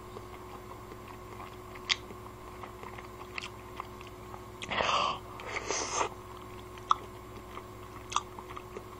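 A person chewing a mouthful of soup, with small wet mouth clicks every second or so. Two short hissing sounds come about five and six seconds in.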